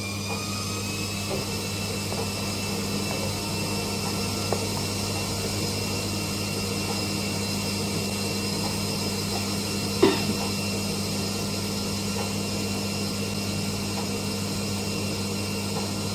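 An electric kitchen appliance motor running steadily with a hum and a high whine that rises a little in the first second or so, then holds steady. A single sharp click about ten seconds in.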